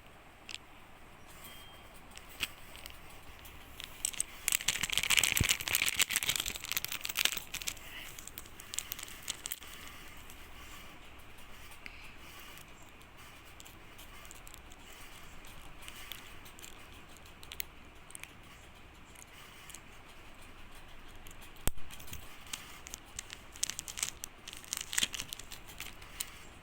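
Mechanical pencil packaging being opened by hand: crinkling and tearing with scattered sharp clicks, busiest about four to eight seconds in and again near the end.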